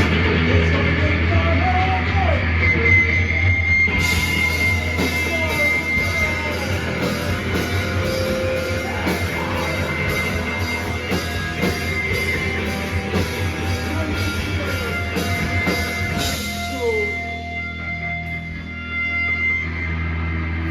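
Live loud rock band: distorted electric guitars, bass and drum kit. Cymbals beat steadily from about four seconds in; around sixteen seconds they stop and the guitars and bass carry on without them.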